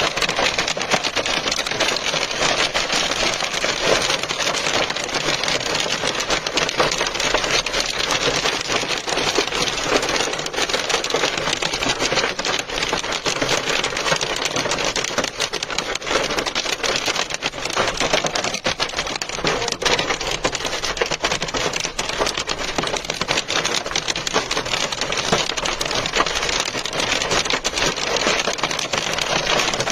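Hail falling with heavy rain: a dense, steady clatter of hailstones and raindrops striking surfaces.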